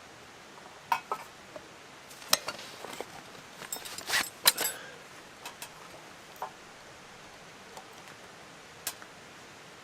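Irregular light clinks and knocks of camp gear and utensils being handled, busiest around four seconds in.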